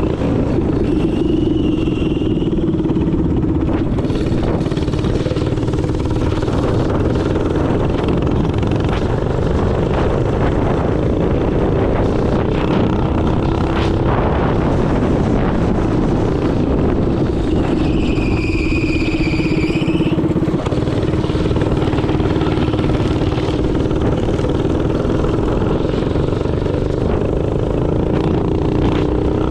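Minibike engine running steadily under way, over a dense low rumble. A brief high-pitched tone sounds about two-thirds of the way through.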